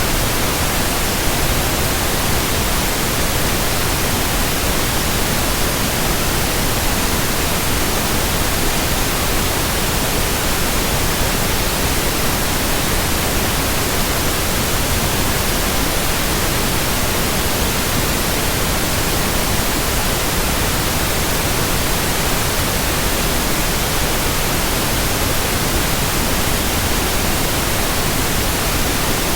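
Steady white noise: an even, unchanging hiss spread across all pitches, with no hum, rhythm or separate events.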